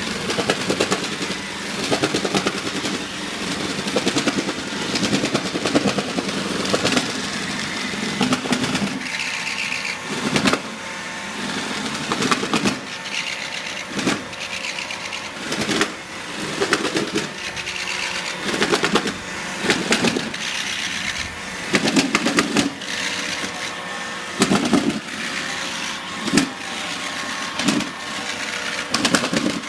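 iRobot Roomba 880 robot vacuum running, its motors whirring steadily, with frequent irregular clunks that come every second or two through the second half. The clunking is an abnormal noise that began after three months of use, and its cause is undiagnosed.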